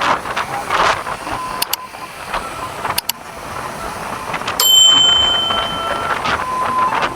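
Roadside traffic noise with wind on the microphone, with a few sharp clicks, and a clear high steady tone for about a second and a half just past the middle, the loudest moment.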